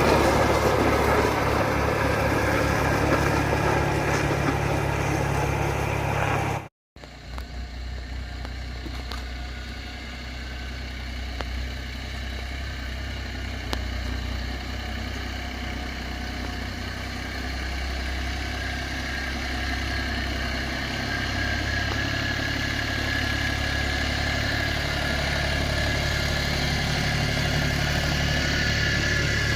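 An engine running steadily at an even speed. The sound cuts out completely for a moment about seven seconds in, then carries on.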